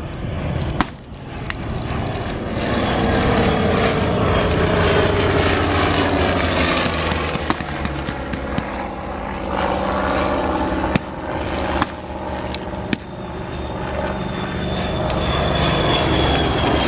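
Douglas Skyraider propeller aircraft with big radial engines flying past, a loud engine drone whose pitch falls as they go by. A few sharp clicks are heard over it.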